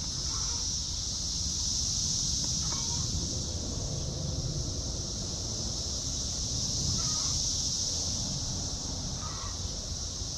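Four short, harsh bird calls spaced a few seconds apart, over a steady high-pitched hiss and low wind rumble.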